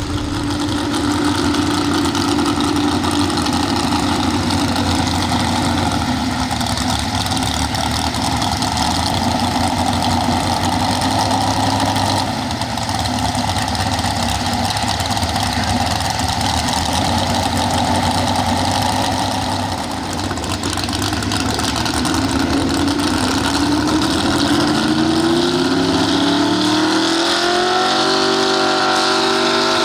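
Pro Stock 4x4 pulling truck engine running loud and steady, then revving higher with its pitch climbing over the last several seconds.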